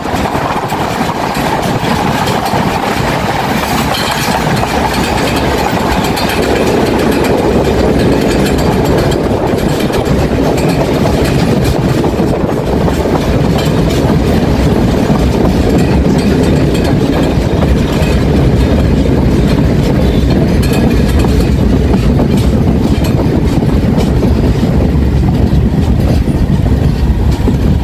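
Passenger train running at speed, heard from an open carriage door: a continuous rumble and rattle of the coaches, with the wheels clattering on the rails. The low rumble grows heavier about halfway through.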